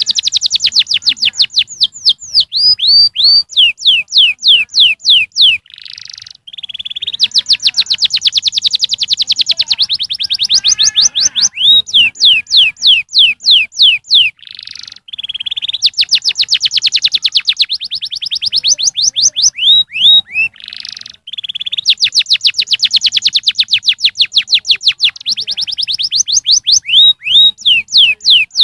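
Canary singing: long rapid trills of quick falling whistled notes, in phrases that repeat, each break marked by a short buzzy note.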